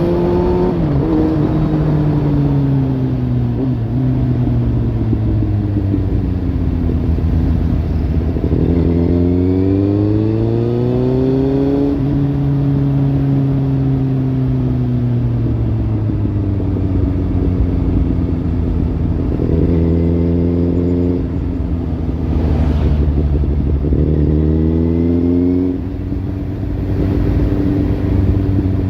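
Kawasaki Z800 inline-four through a Lextek slip-on exhaust, its note climbing and falling over several seconds at a time as the throttle opens and closes. Several quicker pitch jumps and a short drop in loudness near the end.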